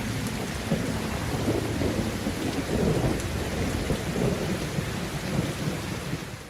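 Steady rain falling with a low rolling rumble of thunder, fading out at the very end.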